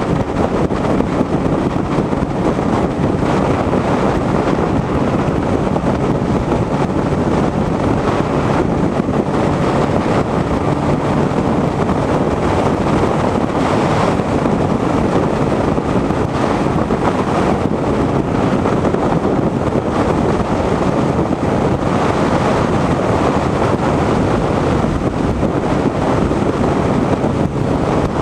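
Wind rushing over the microphone of a motorcycle at highway speed, with the bike's engine running steadily underneath.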